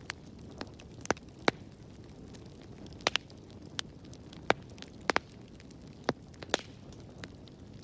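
Wood fire crackling in a fireplace: sharp, irregular pops and snaps, about a dozen, over a low steady rumble of the burning.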